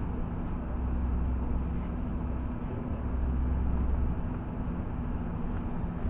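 Interior of a LiAZ 6213 articulated city bus under way: a steady low engine drone with road noise. The low rumble swells twice.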